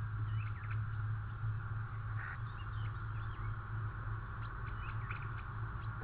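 Short chirps and calls of small birds, a cluster in the first half and a few scattered near the end, over a steady low hum.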